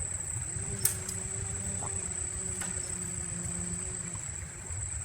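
Steady high-pitched insect drone from crickets or cicadas, over a low background rumble, with a single sharp click about a second in.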